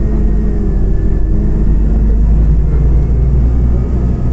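Scania OmniCity CNG city bus under way: its engine and running gear give a steady low rumble, heard from inside the passenger cabin.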